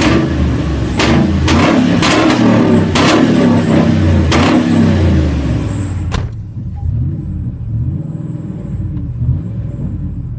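Supercharged 5.4-litre V8 of a 2000 Ford F-150, breathing through headers and holed Flowmaster mufflers, revved loudly in a series of quick blips. About six seconds in, the revs drop sharply back to a rumbling idle.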